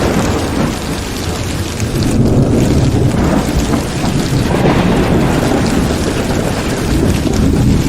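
Heavy rain falling steadily under rolling thunder, the low rumble swelling and easing several times.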